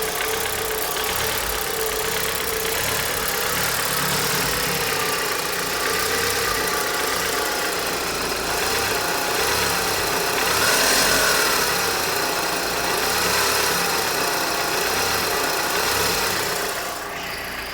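Mitsubishi Lancer IX's 2.0-litre 4G63 inline-four engine running, with the knock that the owner is recording. Its pitch rises and falls slightly, loudest about eleven seconds in, and the level drops near the end.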